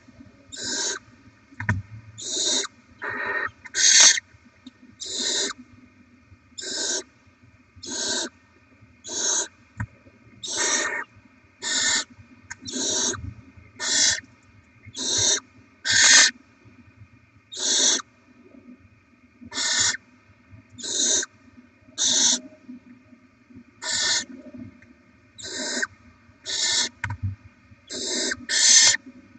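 Barn owl owlets giving their rasping, hissing food-begging calls, short harsh hisses repeated roughly once a second, over a faint steady electrical hum.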